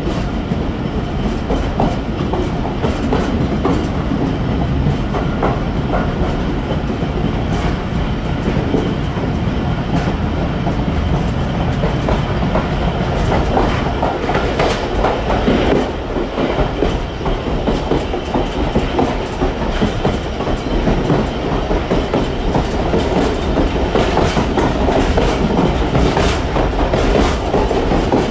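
Passenger train running along the track: a steady rumble with a rapid clatter of wheels over rail joints, which grows busier near the end.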